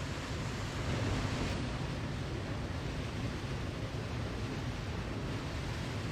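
Steady rushing water noise of a waterfall, an even hiss with a low rumble, unchanging throughout.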